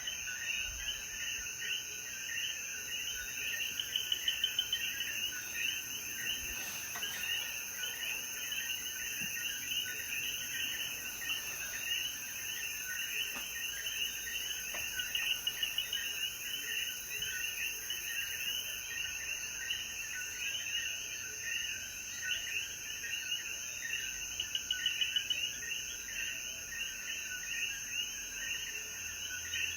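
Night chorus of many Puerto Rican coquí frogs calling over one another, a dense overlapping mass of short chirping calls, with a steady high insect drone underneath. A few times the chorus briefly swells louder.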